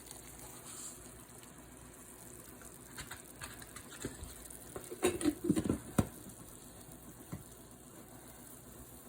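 Kitchen handling sounds while coffee is brewed in a pot on the stove: a faint steady hiss of water, with scattered knocks and a short burst of clatter about five seconds in ending in a sharp click.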